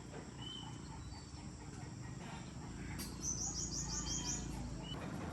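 Birds chirping in short scattered calls, with a quick run of about seven high notes about three seconds in, over a low steady hum.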